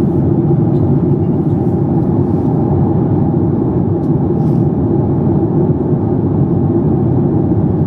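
Steady cabin drone of a Boeing 737 MAX 8, its CFM LEAP-1B engines and airflow heard from a passenger seat, with a low hum and a faint steady tone above it.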